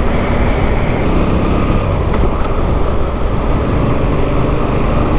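Motorcycle riding at speed: a steady rush of wind noise on the microphone with the engine running underneath.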